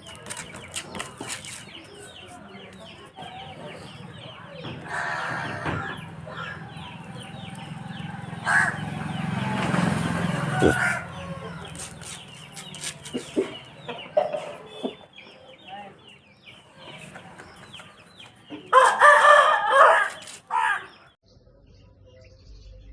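Aseel chickens clucking continuously, with a rooster's crow lasting about two seconds near the end.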